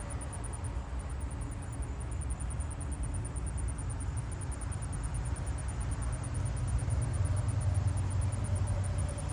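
Southern ground cricket calling: a fast, even trill of high pulses, with a short break about a second in. Under it a low rumble that swells near the end.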